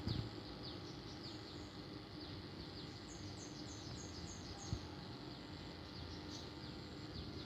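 Small birds chirping, a short falling chirp repeated every half second or so, with a quick run of six higher notes about three seconds in.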